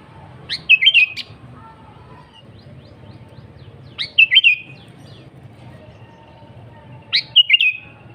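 Sooty-headed bulbul (kutilang) singing three short phrases about three seconds apart. Each is a quick rising note followed by a fast burst of warbled notes.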